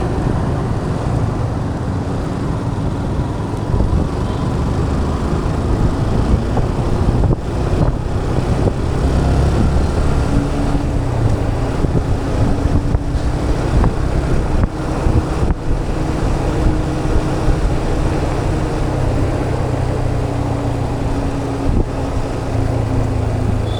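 Motorcycle riding through city traffic: a steady engine and road rumble, with wind buffeting the action-camera microphone. A steady engine note rises out of the rumble about ten seconds in and sags slightly near the end.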